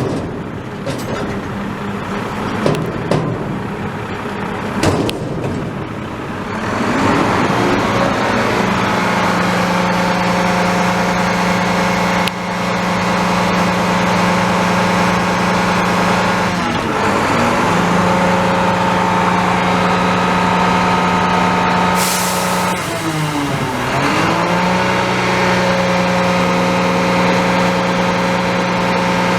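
Garbage truck working: a few sharp knocks and clanks at first, then the diesel engine runs up and holds a steady raised note. The note dips in pitch and recovers twice, with a short air hiss just before the second dip.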